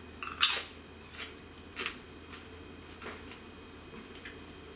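Crisp microwaved sweet potato chips crunching as they are bitten and chewed: a loud crunch about half a second in, then smaller irregular crunches every half second or so.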